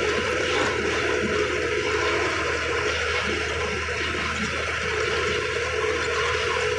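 A moving truck: a steady rushing of road and wind noise over a low hum, with a faint steady tone running through it.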